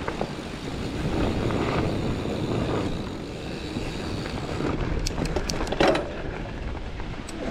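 Giant Fathom mountain bike rolling along a dirt trail: steady tyre and wind rumble, with a quick run of clicks and rattles and a louder knock about five to six seconds in as the bike goes over rough ground.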